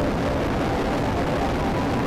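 Motorcycle riding at highway speed: the engine running steadily under heavy wind rush on the microphone.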